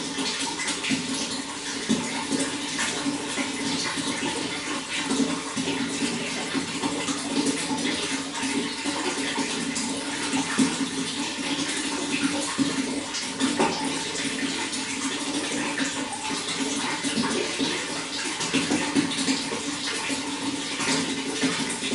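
Running water flowing steadily, a continuous rushing with many small irregular splashes throughout.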